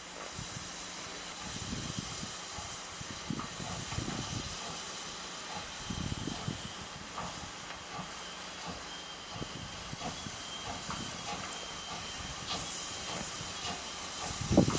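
Steam locomotive in steam, hissing steadily, with irregular low rumbles underneath.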